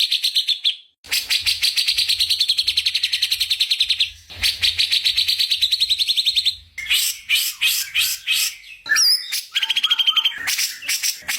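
Songbird singing a masteran (tutor song for training murai): long, very fast rattling trills of rapidly repeated notes, broken by short pauses, giving way about seven seconds in to more varied phrases with whistled and sliding notes.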